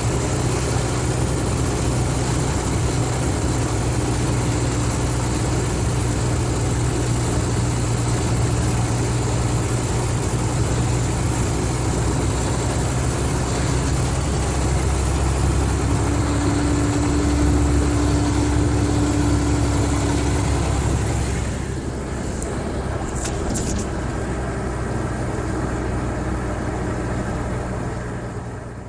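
Mercedes-Benz O500RSD coach's diesel engine running steadily at low revs. It grows a little louder with an added steady hum for a few seconds past the middle, eases off slightly, and fades out at the end.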